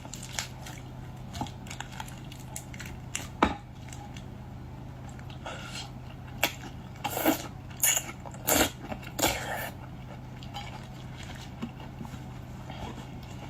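Close-miked eating sounds of a person working through boiled seafood: small clicks and chewing, with a cluster of louder crunches and cracks about six to nine seconds in.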